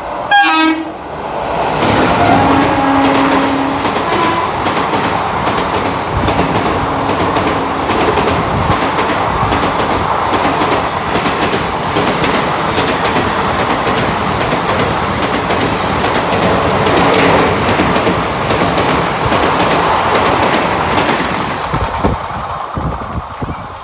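WAP-4 electric locomotive sounds a loud horn blast about half a second in and a second, longer horn note soon after. An express train's coaches then rush through at speed with a clickety-clack of wheels over the rail joints, fading near the end as the last coach passes.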